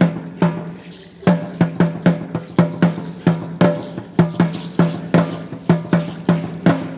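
Aztec dance drum beating a quick dance rhythm, about two to three strikes a second. Each strike rings with a low tone, and there is a short pause near the end.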